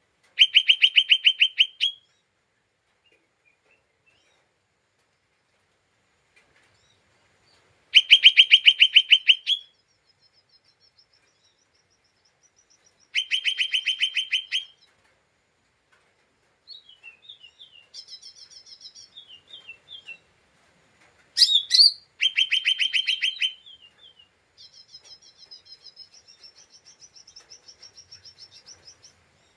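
Cucak ijo mini (lesser green leafbird) giving rapid chattering trills ('ngeriwik'): four loud bursts of quickly repeated notes, each about two seconds long, with softer, thinner twittering in between near the middle and toward the end.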